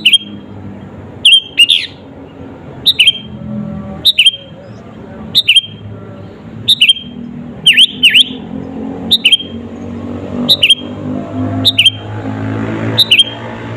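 Sooty-headed bulbul (kutilang) calling, a short, sharp, falling note repeated about a dozen times at an even pace, over a low, steady background hum.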